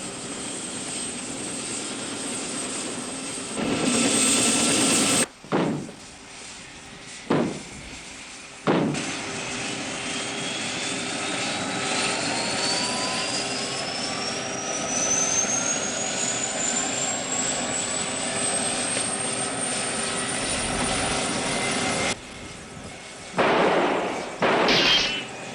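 Helicopter running, its engine and rotor noise steady but broken by abrupt sound cuts. Partway through, a slow rising whine climbs over several seconds, and near the end there are a few short loud bursts.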